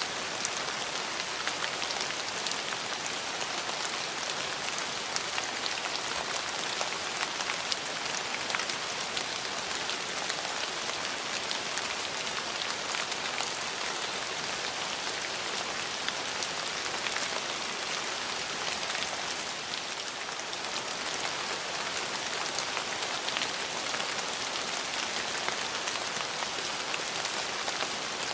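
Steady rain falling on hard surfaces, a dense even hiss with countless fine drop ticks, easing slightly for a moment about two-thirds of the way through.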